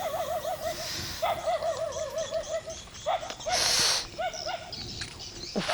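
A wavering, hoot-like call that trembles rapidly around one pitch, repeated in several short runs. A brief loud hiss cuts in about three and a half seconds in.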